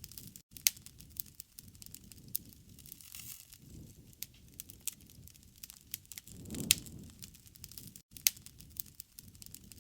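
Campfire burning, with irregular crackles and pops over a low rumble of flames and two louder pops, about a second in and near the seven-second mark. The sound drops out completely for an instant twice.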